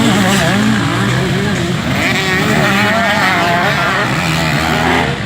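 Several motocross bikes' engines revving hard, their pitch rising and falling as they accelerate and shift around the track, with a few engines overlapping at once.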